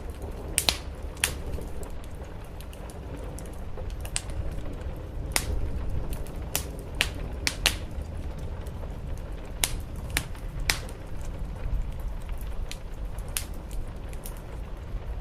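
Wood fire crackling, with sharp pops at irregular intervals over a steady low rumble and the soft, even hiss of rain on a roof.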